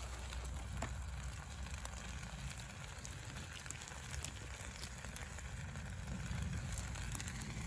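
Wood campfire crackling with scattered pops, over a steady sizzle of yakisoba frying above the fire, and a low rumble underneath.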